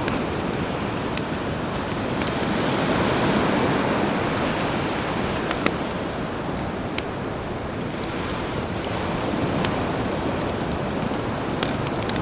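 Campfire crackling with scattered sharp pops over the steady wash of sea waves, a wave swelling louder about two to four seconds in.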